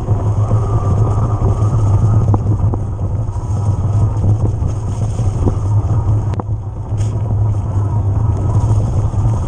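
Riding noise picked up by a camera on an e-mountain bike: a steady, loud rumble of wind on the microphone and tyres on the trail, with a few sharp rattling clicks, the loudest about six seconds in.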